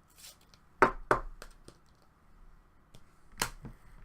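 Trading cards being handled on a table: a few sharp taps and flicks, the loudest two about a second in and another near three and a half seconds.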